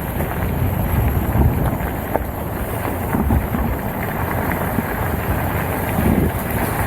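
Wind buffeting the microphone while riding a mountain bike on a trail, with scattered knocks and rattles from the bike over rough ground.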